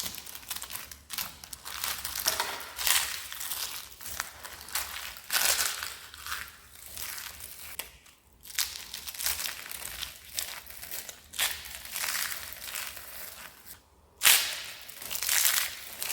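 Dry, crispy soap being crushed and crumbled, a dense run of crisp crunching and crackling. It pauses briefly about eight seconds in and again near the end, just before the loudest crunch.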